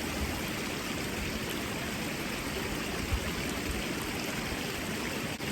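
Forest stream flowing steadily, an even rushing of water.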